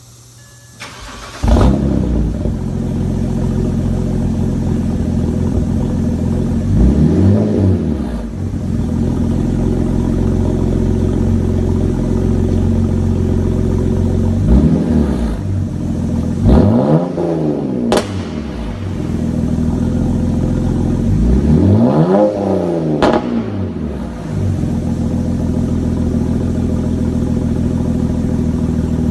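BMW E90 325i's straight-six starting about a second and a half in through a straight-piped 3-inch exhaust with muffler and resonator deleted, then idling loud and steady. It is blipped with several short revs that rise and fall in pitch, two of them close together near the middle and two more later on. A sharp click sounds once, about two-thirds of the way through.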